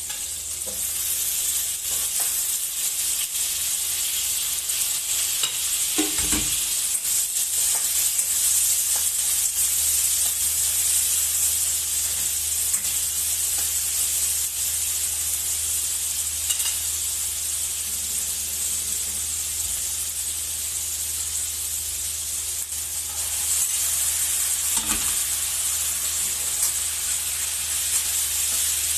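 Onion, garlic and tomatoes sizzling in hot oil in a wok as they are sautéed and stirred with a spatula, a steady frying hiss that grows louder about a second in. A few short clunks of the spatula and ingredients against the wok, around six seconds in and again near the end.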